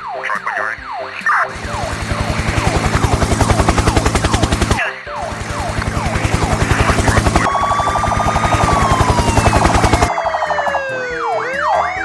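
Dubbed sound effects: a fast yelping police siren, then a loud rapid rattling that runs for several seconds, breaks off briefly, and resumes. A long falling whistle starts partway through the rattle, and rising glides and siren sweeps come back near the end.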